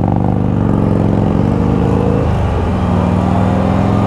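Can-Am Spyder RT three-wheeler's engine pulling under acceleration. The pitch climbs for about two seconds, dips briefly at a gear change, then holds steady.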